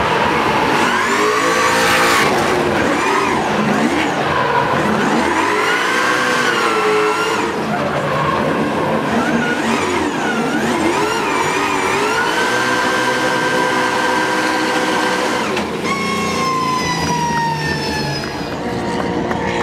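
Drift car's engine revving through a drift run, its pitch climbing and dropping repeatedly as the throttle is worked. About three-quarters of the way in comes a long falling pitch as it slows.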